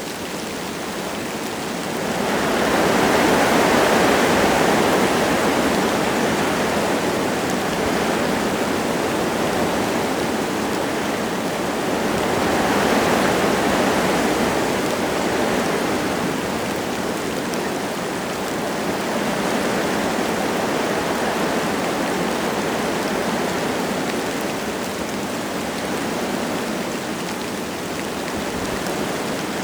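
Wind gusts rushing through forest trees, with light rain falling. The wind swells strongly about two seconds in, eases, then builds again around the middle, with smaller gusts after.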